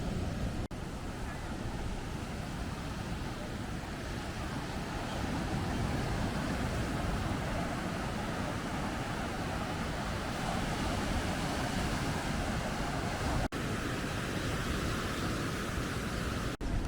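Rough surf washing onto a sandy beach in strong wind, a steady rushing noise with wind buffeting the microphone. It breaks off for an instant three times.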